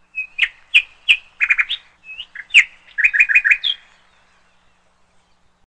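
Bird chirping: a quick series of short, sharp chirps in two bouts, stopping about four seconds in.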